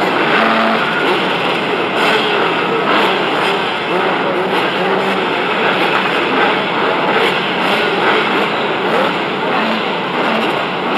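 Motocross bikes running together: a loud, steady engine noise in which no single engine stands out.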